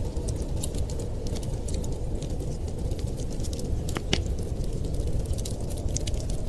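Wood fire crackling: frequent small snaps and pops over a steady low rumble, with one louder pop about four seconds in.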